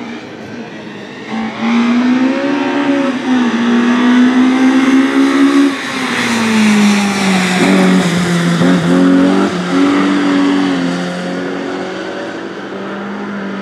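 Rally car engine at high revs passing by. The note comes in loud about a second and a half in and drops in pitch about six seconds in. It breaks briefly several times, as at gear changes, then fades away.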